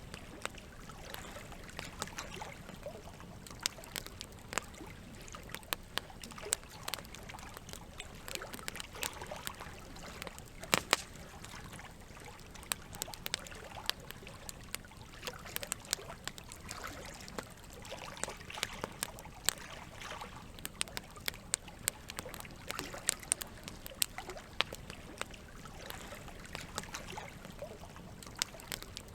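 Campfire crackling with irregular sharp pops, one louder snap about eleven seconds in, over a steady wash of trickling water.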